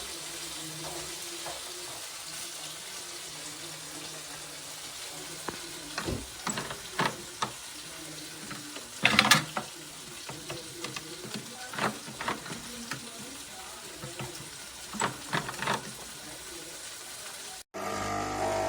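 Broken Swan SK22110GRN espresso machine giving off a steady watery hiss as water leaks out of its base, with scattered clicks and knocks through the middle, the loudest cluster about halfway. The hiss cuts off abruptly near the end.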